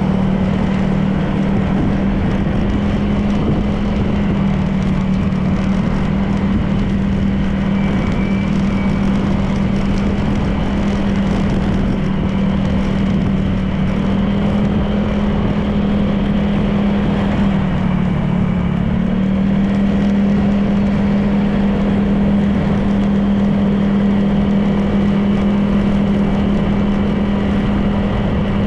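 Honda PCX 160 scooter's single-cylinder engine running at a steady cruise, with wind and road noise. Its note dips briefly about two-thirds of the way through, as the throttle eases, then settles back to the same pitch.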